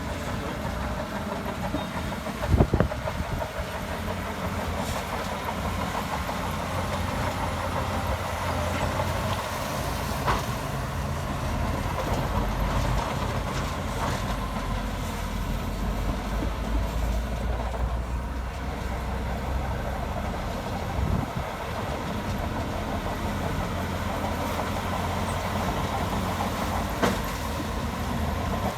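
Shantui DH17C2 crawler bulldozer's diesel engine running steadily under load, with the clatter of its steel tracks. A loud sharp knock about two and a half seconds in and another near the end, like metal or stone striking.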